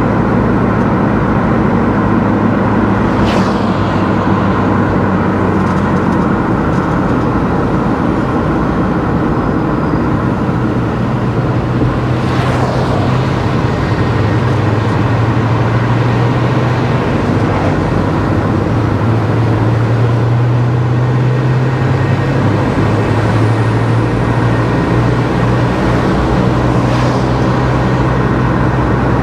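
Car driving along a road: steady engine and tyre noise, with the engine hum shifting in pitch as the speed changes. Three brief whooshes stand out, about three, twelve and twenty-seven seconds in.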